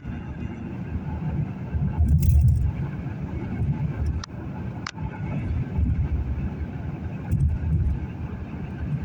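Road traffic passing on an interstate highway: a steady low rumble of vehicles, swelling louder about two seconds in and again near the end.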